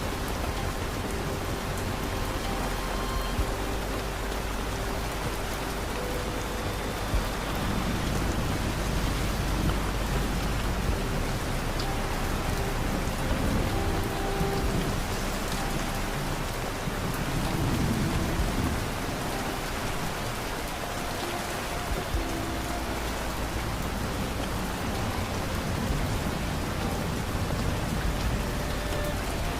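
Steady rain, with a low rumble of distant thunder swelling and fading through the middle. Faint soft sustained music notes sit underneath.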